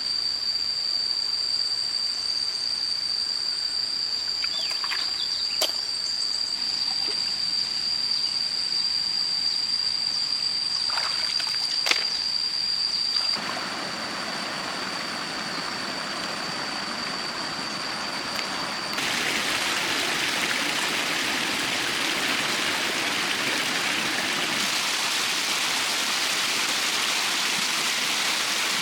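Stream water running. For roughly the first half a steady high-pitched insect drone sits over the water, with a few small knocks. The drone then stops abruptly and the water noise becomes fuller and louder in the upper range, changing again a few seconds later.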